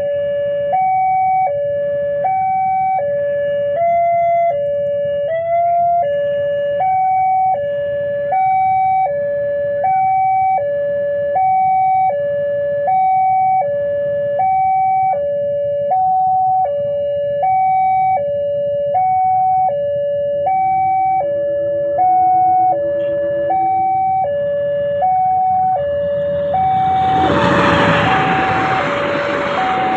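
Railway level-crossing warning alarm sounding a two-tone electronic ding-dong, high and low notes alternating about once a second. In the last few seconds the loud rush and rumble of the approaching train rises under it.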